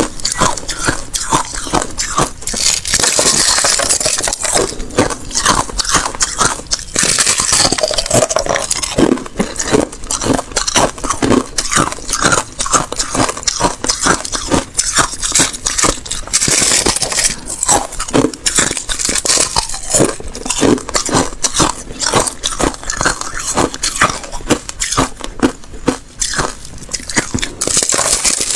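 Thin ice being bitten and chewed: continuous crunching and crackling, with dense irregular cracks and louder bursts of brittle crackle every several seconds.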